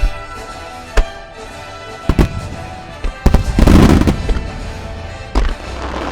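Fireworks going off over music: single sharp bangs about a second apart, a dense loud burst of crackling a little past the middle, and one more bang near the end.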